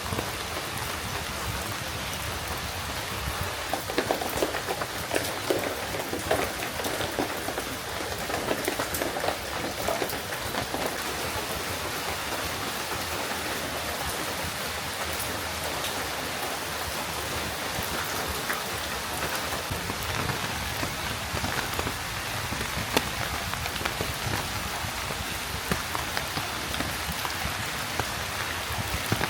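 Steady rain falling, a continuous patter of drops, with a stretch of heavier, closer drips from about four to ten seconds in.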